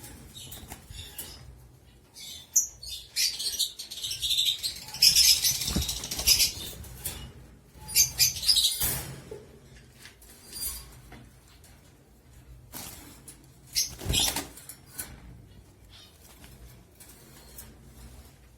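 Cockatiel flapping its wings and scuffling about, with scattered clicks and short chirps. The loudest flurry of flapping comes about four to nine seconds in, and another burst near fourteen seconds.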